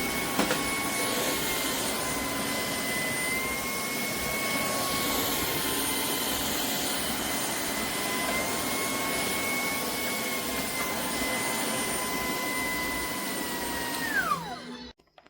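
Shark PowerDetect Clean & Empty vacuum motor running with a steady high whine. Near the end it switches off, its pitch falling away to silence. There is a brief click just after the start.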